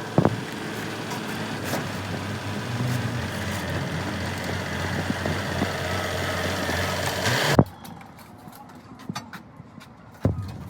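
An engine running steadily at idle, which cuts off abruptly about three-quarters of the way through, leaving a quieter background with a few sharp knocks.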